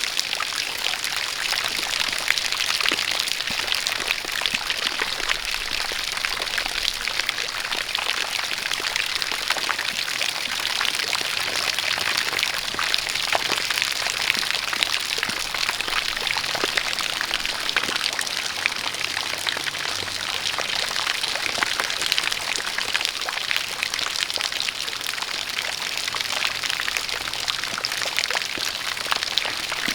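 Steady rain falling, with many fine patters of raindrops, mixed with a continuous pouring stream of water.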